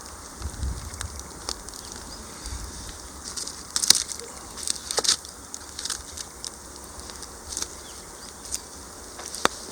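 Wood fire crackling, with irregular sharp pops and snaps; the loudest pop comes about four seconds in.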